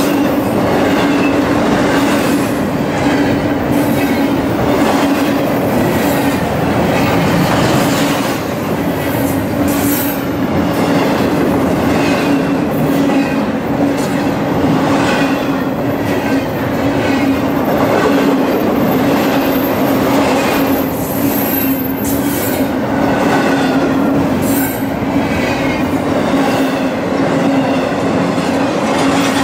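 Train rail cars rolling past close by: a steady loud rumble of wheels on rail with a constant hum, irregular clicks from the wheels, and a faint high wheel squeal about two-thirds of the way through.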